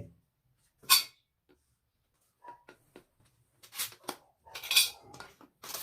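Parts of a washing machine stand being handled and fitted together: a sharp knock about a second in, a few light clicks, then two scraping clatters and a last click near the end.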